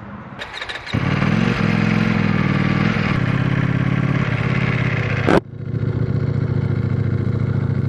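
Ducati Panigale V4S's 1,103 cc V4 engine running under way at low road speed. The sound breaks off abruptly a little past five seconds and resumes at a lower level.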